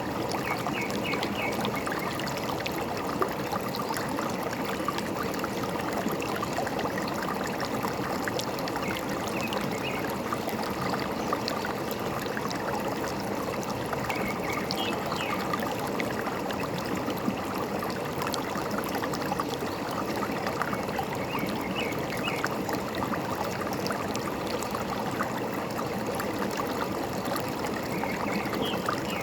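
Forest stream flowing steadily, with a few short bird chirps now and then.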